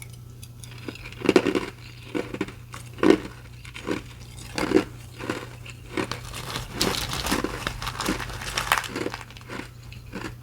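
A person biting and chewing restaurant ice close to the microphone: a series of sharp crunches, some loud single bites in the first half, then quicker, denser crunching.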